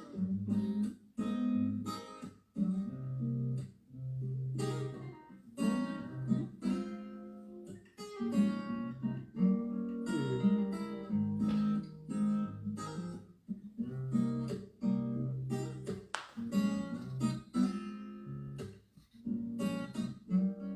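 Acoustic guitar music: chords plucked over low bass notes, a new chord struck every second or so.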